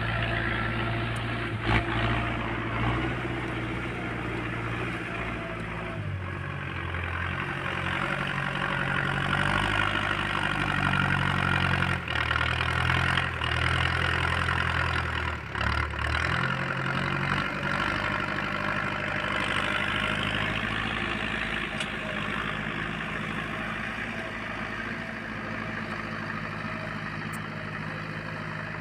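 Tractor diesel engine running steadily while working a tillage implement through soil. Its pitch shifts under changing load about six seconds in and again around twelve to seventeen seconds, over a continuous grinding noise.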